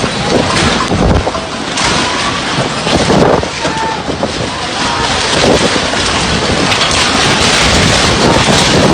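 Strong storm wind gusting and buffeting the microphone, a loud continuous rushing that swells and eases.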